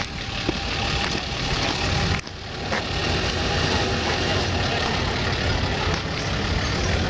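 A vehicle engine running steadily, with a low continuous hum, dipping briefly about two seconds in.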